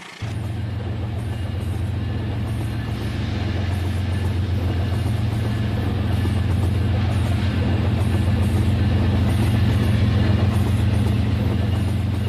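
RailKing model train running, a steady low engine-like drone that starts suddenly and slowly grows louder, easing off slightly near the end.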